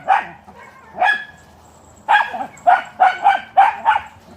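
Dog barking: two single barks in the first second or so, then a quick run of about seven barks, roughly three a second.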